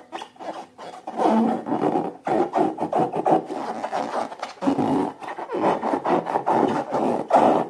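Slime being squished and mixed by hand, a wet, sticky crackling rub with many small pops, in three long stretches.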